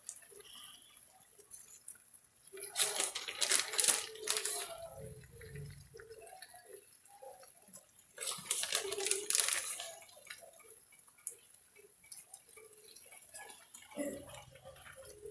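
Crinkling and rustling in two bursts, about three seconds in and again about eight seconds in, as shredded mozzarella is sprinkled over cooked chicken.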